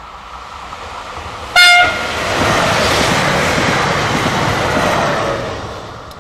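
Bimode TER multiple unit approaching at speed and sounding one short horn blast about a second and a half in, then passing close by, loud for about three seconds before fading away.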